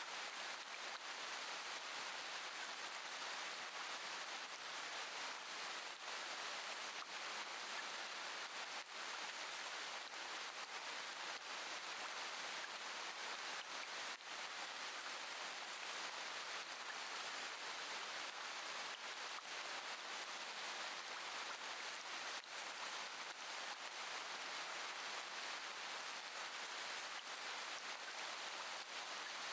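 Steady rain falling: an even hiss with a few faint, sharper drop ticks scattered through it.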